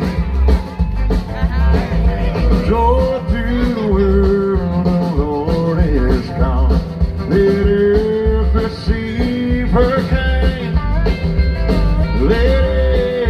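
Live band music: a passage without words, with a wavering lead melody over bass and a steady drum beat.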